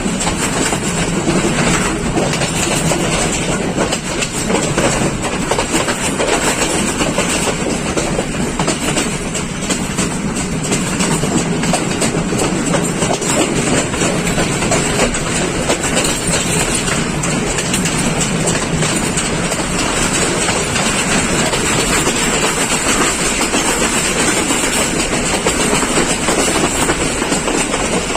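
Colombo–Badulla Night Mail express train running along the track: a steady rolling rumble with the clatter of wheels over rail joints.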